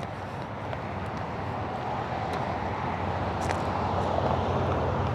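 Road traffic: a vehicle's engine and tyres, growing steadily louder as it approaches.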